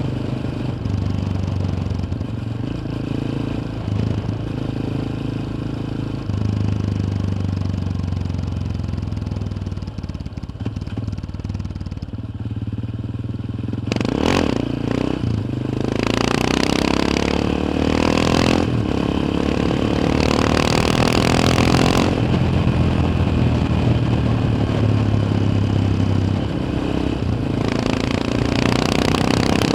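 Yamaha XT 600's single-cylinder four-stroke engine heard onboard while riding. For the first half it runs at a steady, low note and eases off a little. From about halfway it pulls harder, its pitch rising twice, with a loud rushing hiss that comes and goes.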